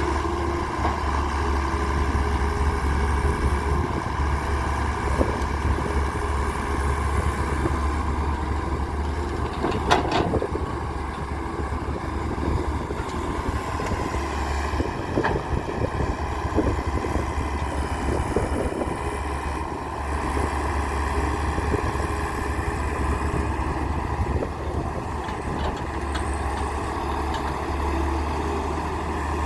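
Diesel engine of a Daewoo 170W3 wheeled excavator running steadily while it loads mud into a tipper truck. A single sharp knock comes about ten seconds in.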